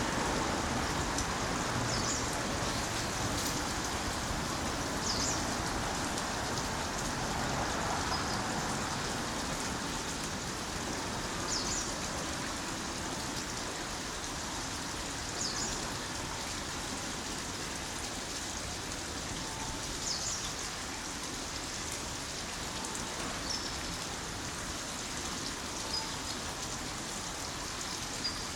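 Steady rain falling on surfaces, an even hiss, with short high chirps every few seconds.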